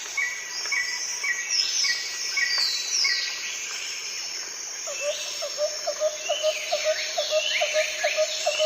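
Several wild birds calling at once. A high note repeats about twice a second through the first half, with sweeping whistled calls over it, and from about halfway a lower, quicker note repeats about three times a second.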